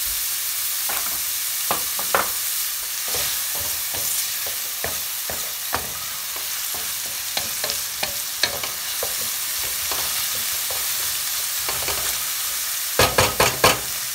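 Diced pancetta, onion and garlic sizzling in olive oil in a stainless steel skillet as they lightly brown, with a wooden spoon scraping and tapping against the pan as they are stirred. A run of louder spoon scrapes comes near the end.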